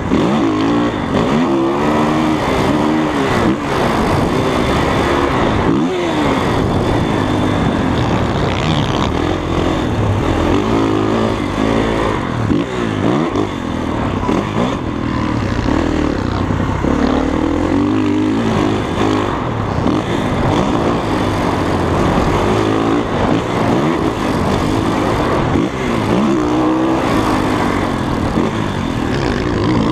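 Dirt bike engine being ridden hard, its pitch repeatedly climbing and dropping every second or two as the throttle is opened and closed.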